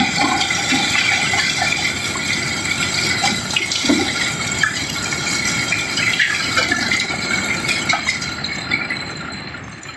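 River cobblestones pouring and tumbling in a continuous flow, a dense rattling rush of stone knocking on stone that thins out and fades over the last couple of seconds.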